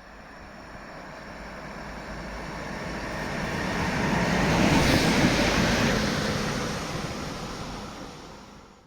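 A train passing by: rumble and wheel noise that build to a peak about five seconds in, then fade as it goes away.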